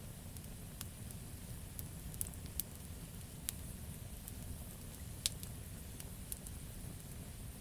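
Wood campfire crackling: sharp, irregular pops and snaps from the burning logs over a steady low rumble of the flames, with two louder pops about two and a half and five seconds in.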